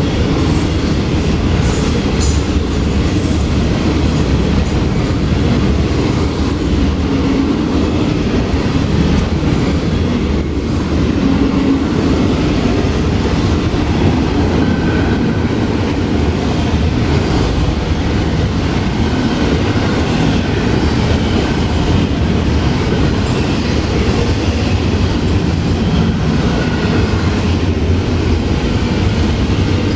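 Cars of a long Florida East Coast Railway freight train rolling past, a steady loud rumble and clatter of wheels on the rails, with now and then a brief faint wheel squeal.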